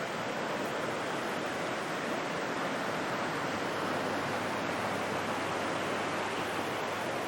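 Steady rush of a mountain stream.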